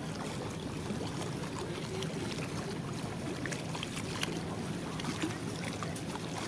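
A steady low engine hum over a constant wash of outdoor noise, with faint scattered clicks.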